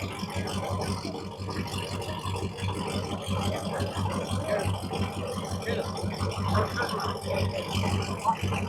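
Car engine running with a loud exhaust: a steady, pulsing low rumble with some rattle over it.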